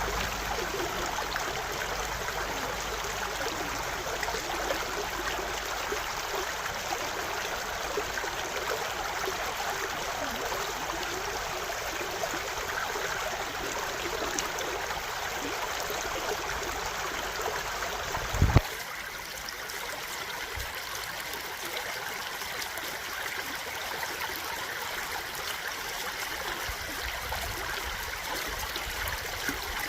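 A stream of water running steadily. About two-thirds of the way in comes a short thump, after which the water sound changes slightly, with less low rumble.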